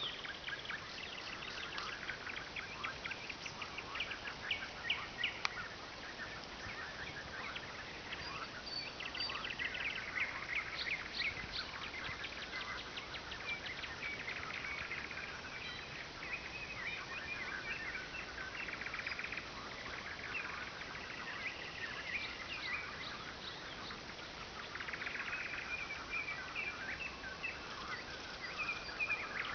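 Nightingales singing: phrase after phrase of rapidly repeated notes and trills, with no real pause.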